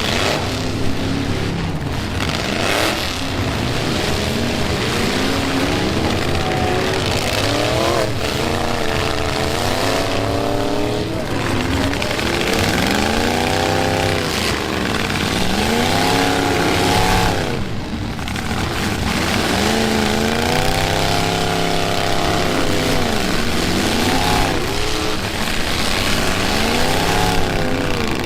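Several demolition derby pickup truck engines revving hard and dropping back over and over, their pitches sweeping up and down and overlapping, with a few sharp knocks between the revs.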